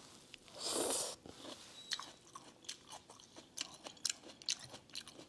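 A person eating noodle soup up close: soft chewing with many scattered small mouth clicks, and a short breathy rush about a second in.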